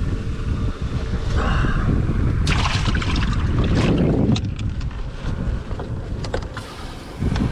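Wind buffeting the microphone on an open fishing boat, a loud uneven low rumble, with a few short clicks and knocks in the middle.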